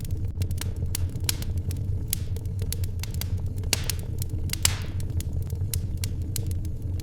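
Wood fire in a fireplace crackling and popping at irregular intervals over a steady low rumble, with a brief hiss about four and a half seconds in.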